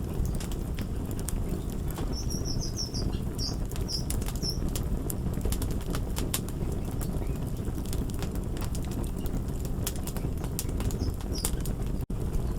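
Fire crackling: many sharp pops and snaps over a steady low rumble. A few short high chirps come about two seconds in and once more near the end, and the sound drops out for an instant just before the end.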